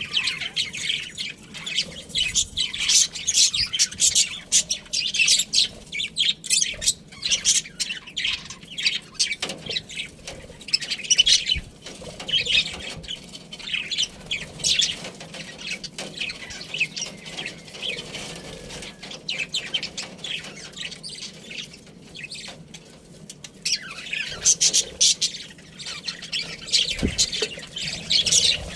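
Pet budgerigars chirping and chattering in rapid, high-pitched runs, with a quieter stretch of several seconds a little past the middle.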